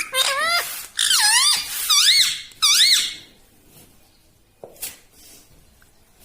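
Pet ringneck parrot giving a quick run of squeaky whistled calls, each sweeping up and down in pitch, for about three seconds, followed by a few faint clicks.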